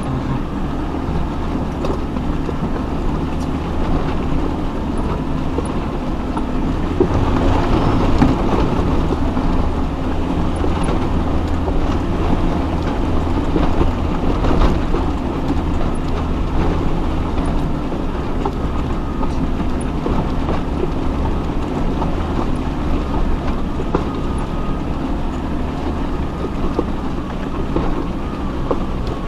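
Off-road 4x4 crawling over a rough, rocky mountain track: a steady low engine rumble with rattles and knocks from the body and suspension.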